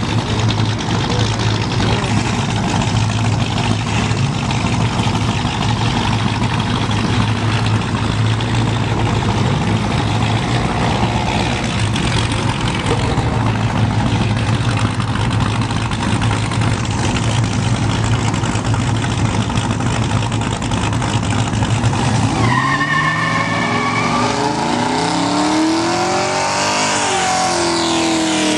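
Car engines running loudly close by. About 22 seconds in, the sound changes to engines revving, with pitch rising and falling in repeated sweeps.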